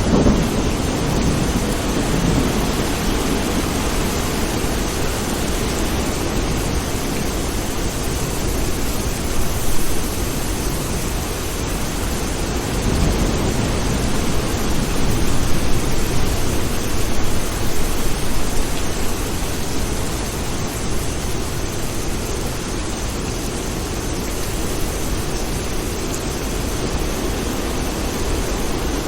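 Steady rain of a thunderstorm, with a thunderclap's rumble dying away at the start and low rolls of distant thunder about ten seconds in and again around the middle.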